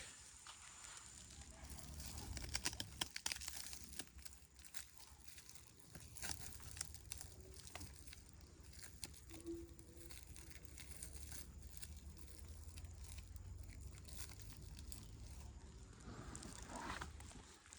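Irregular crackling, rustling and tearing sounds, many small clicks close together, over a low steady rumble.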